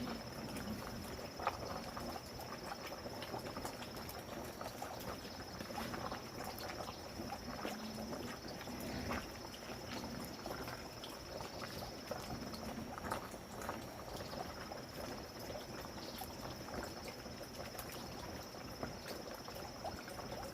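A steady high-pitched insect trill, like a cricket, over scattered small clicks and knocks.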